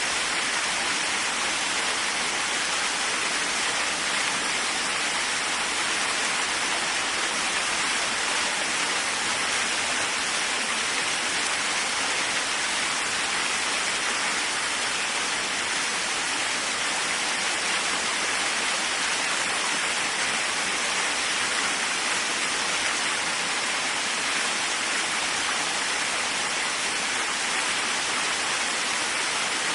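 Waterfall: a steady, unchanging rush of falling water, bright and hissy with little low rumble.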